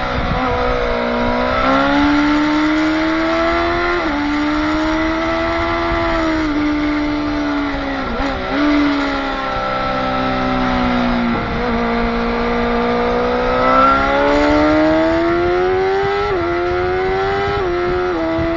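Motorcycle engine under hard acceleration, its pitch climbing and dropping sharply at each gear change. Around the middle the revs dip and fall away, then build again through further upshifts.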